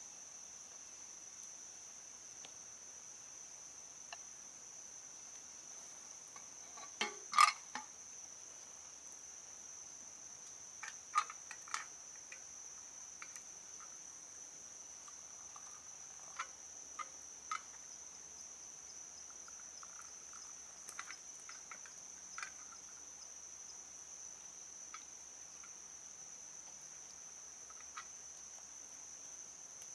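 Crickets or similar insects chirring in one steady high-pitched drone. A few short sharp clicks and knocks break in now and then, the loudest pair about seven seconds in.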